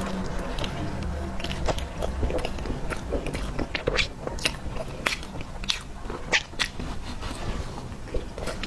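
Someone chewing soft tiger skin roll sponge cake: wet, sticky mouth sounds with irregular sharp clicks and lip smacks.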